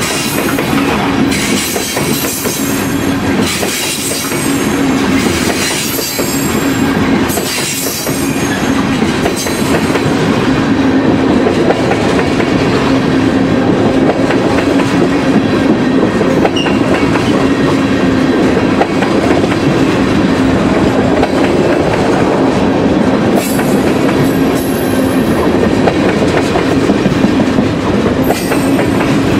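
Freight train of tarp-covered hopper cars and tank cars rolling past close by: steel wheels clattering over the rail joints over a steady low hum. A high hiss comes and goes about once a second for the first ten seconds.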